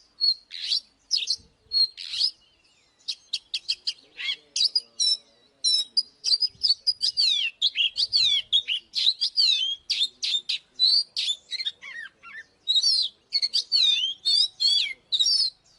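Oriental magpie-robin singing: a fast, varied run of clear whistles and sweeping slurred notes, with a short pause about three seconds in.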